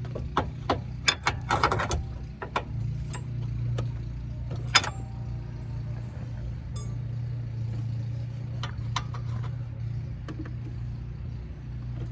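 Hand tools clinking and knocking against metal during work on a car's front suspension, a quick run of clicks early on, then single sharp clicks, over a steady low hum.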